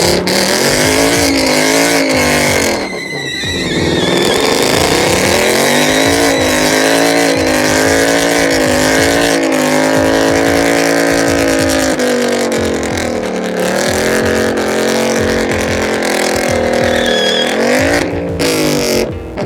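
Car engine held at high revs, its pitch wavering up and down, with tyre squeal: a burnout. The revs drop briefly about three seconds in and again near the end.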